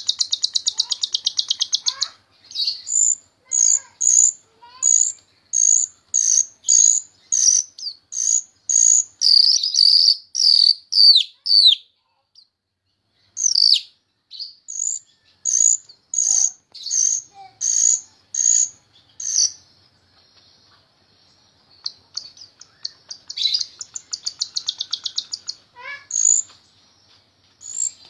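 Jalak Rio-Rio starling singing: a fast buzzy trill, then a long run of sharp, high repeated notes about two a second, a short pause, more notes and a second buzzy trill near the end.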